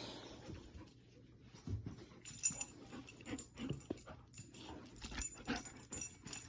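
Faint sounds of a dog moving about on its own: scattered short clicks and light jingles.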